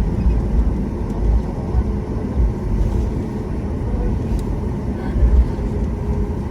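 Cabin noise inside a jet airliner taxiing after landing: a steady low rumble from the engines and the wheels rolling on the ground, with a faint steady hum.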